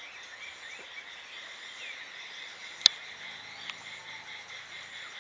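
Steady shrill insect chorus, with a few faint short bird chirps in the first two seconds. One sharp click about three seconds in is the loudest sound, followed by a smaller click.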